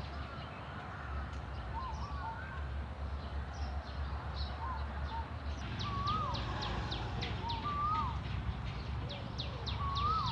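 Birds singing: a short whistled phrase that rises and falls repeats every couple of seconds, and from about halfway a second bird adds a fast run of high, quick chirps. A steady low rumble runs underneath.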